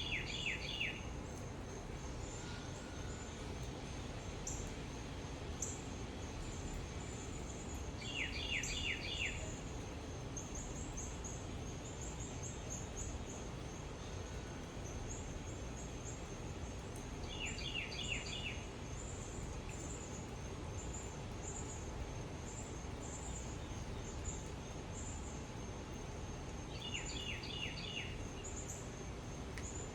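A songbird repeats a short phrase of four or five quick down-slurred whistled notes, about every nine seconds, over a steady high pulsing chirring of insects.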